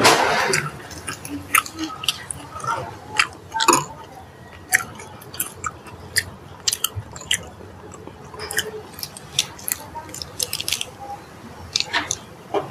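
Close-up chewing and crunching of crisp fresh lettuce, many short sharp crunches, after a leaf is torn at the very start.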